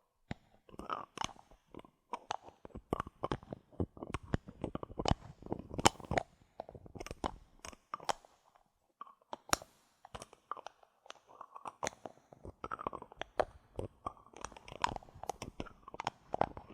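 Bottle caps handled close to the microphone: a dense, irregular run of small clicks and crackles, with a few sharper clicks about six and nine and a half seconds in.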